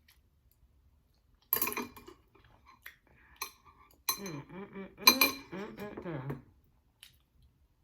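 Utensils clink against a bowl as the last noodles are gathered: a sharp ringing clink about one and a half seconds in, and two more around four and five seconds. Between about four and six and a half seconds a voice makes wordless sounds over the clinks.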